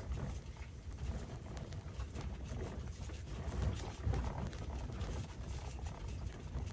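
Birds calling over a steady low rumble.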